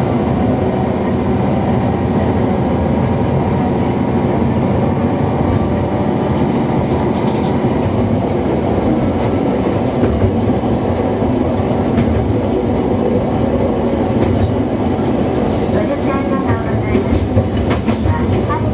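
Diesel railcar running along the line with a steady engine drone and rumbling wheels, plus the occasional click of the wheels passing over rail joints.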